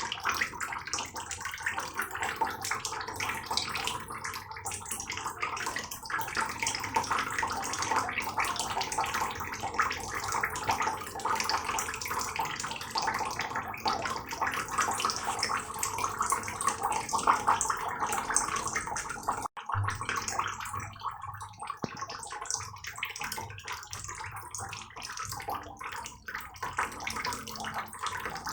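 Heavy rain falling, a dense steady patter of drops splashing. It cuts out for an instant about two-thirds through, then goes on.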